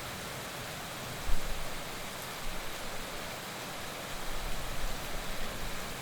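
Heavy rain falling steadily, an even hiss, with a few short low rumbles: a sharp one about a second in and more between two and five seconds.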